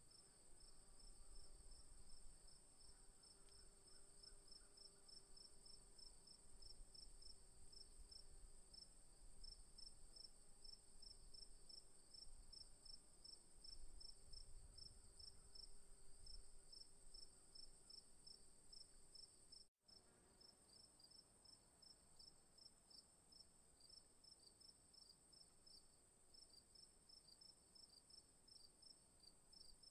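Night insects in the bush: a continuous high-pitched insect trill with crickets chirping in rapid pulses beneath it. A faint low drone runs under them until a brief drop-out about two-thirds through, after which only the insects remain.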